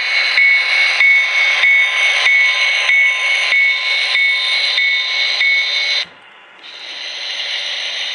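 Electronic bell of an HO-scale model train's sound system ringing in even strokes, about one every 0.6 seconds. It cuts off suddenly about six seconds in, and a steady running sound swells back in a second later.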